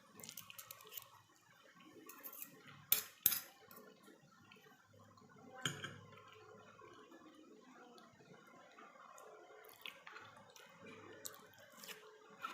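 Faint eating sounds: utensils clicking against a plate or bowl. There are a few sharper taps, two close together about three seconds in and another near six seconds, with scattered soft clicks between.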